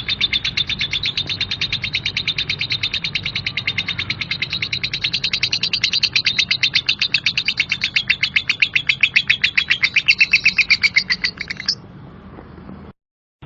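Lovebird ngekek: one long, rapid, evenly repeated chattering string of calls, harsh ('kasar') in keepers' terms. The string breaks off about twelve seconds in and starts again right at the end after a brief silence.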